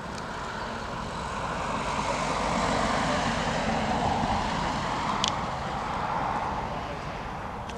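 Jet airliner passing, its rushing engine noise swelling over several seconds and then fading away. A single sharp click about five seconds in.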